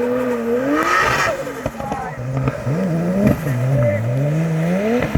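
Drift car engine revving on a wet track, its pitch rising and falling repeatedly as the throttle is worked through a slide. A brief hiss comes about a second in.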